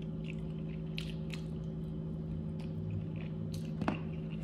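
A person chewing food with a few wet mouth smacks and clicks, the sharpest near the end, over a steady low hum.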